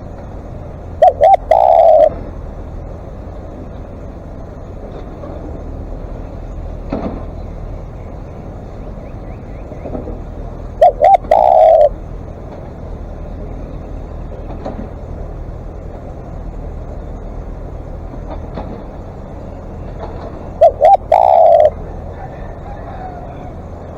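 Spotted dove calling three times, about ten seconds apart. Each call is two short coos followed by a longer coo.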